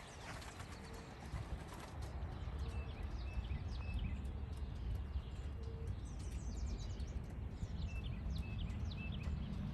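Small birds chirping with short, repeated high calls, over a steady low rumble that grows about two seconds in.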